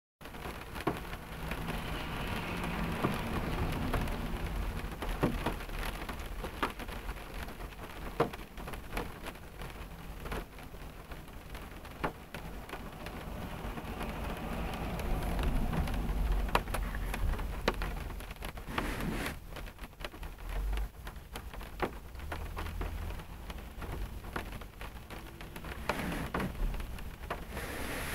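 Rain falling on a car's roof and windshield, heard from inside the cabin: a steady hiss with many separate drops tapping on the metal and glass. A low rumble swells and fades underneath.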